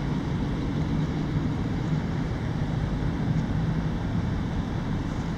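A freight train running on the tracks: a steady low rumbling noise that holds without distinct beats.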